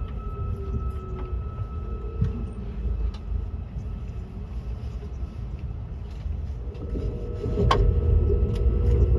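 ICE high-speed train running, heard inside the carriage: a steady low rumble with faint steady whines and scattered clicks. The rumble grows louder about seven seconds in, just after a sharp click.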